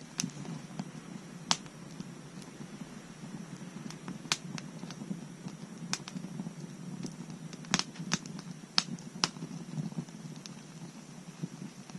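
Wood bonfire crackling: sharp pops and snaps at irregular intervals, several of them loud, over a steady low rush of the burning fire.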